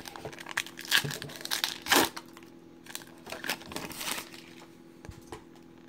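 Crinkling and tearing of a trading-card pack wrapper being ripped open, in a run of short bursts, loudest about two seconds in.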